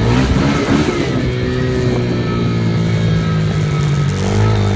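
Motorcycle engine running at a steady speed, with the pitch easing down slightly about four seconds in.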